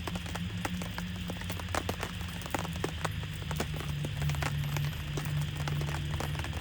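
Rain falling steadily, with many separate drops ticking sharply on a surface close by. Low steady tones run underneath and shift pitch partway through.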